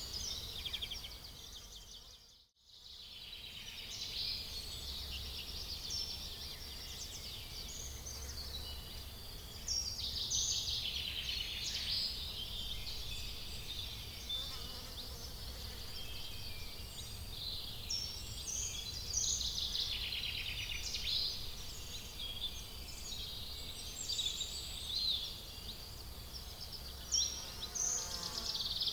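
Outdoor ambience of small birds and insects chirping and trilling, with a faint low rumble underneath. The sound drops out briefly about two and a half seconds in.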